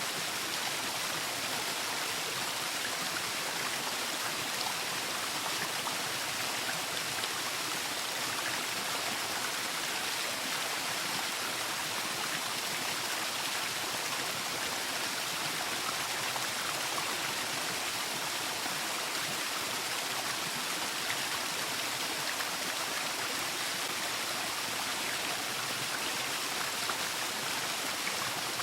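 Waterfall: a steady rush of falling water, hissy and even, with no change in loudness.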